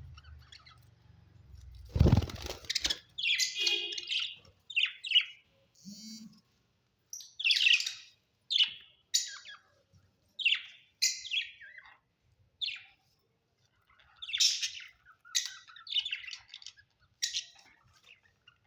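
Pet budgerigars chirping in a string of short, high calls, with a brief lull in the middle. A loud thump comes about two seconds in.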